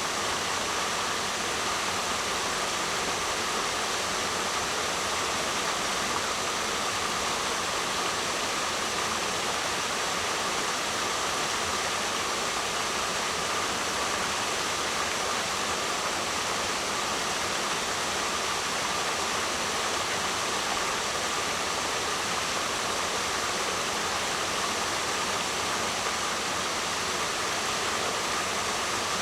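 Waterfall rushing in a steady, unbroken roar of falling water, with a slight hiss in the upper range.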